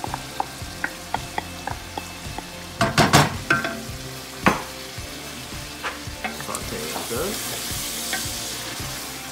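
Chicken, tomatoes and yogurt sizzling and crackling in hot oil in a large metal stockpot while a wooden spoon stirs and knocks against the pot. There are a few louder knocks about three seconds in and again a second or so later, and the sizzle grows louder near the end.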